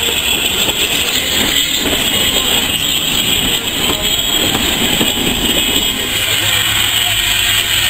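Train rolling slowly past: a steam locomotive got up as Thomas the Tank Engine with a diesel multiple unit coupled behind, its wheels running on the track, with a steady hiss and rumble throughout.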